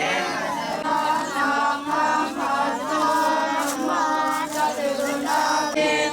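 A group of voices chanting Buddhist Pali verses in unison, in steady held phrases.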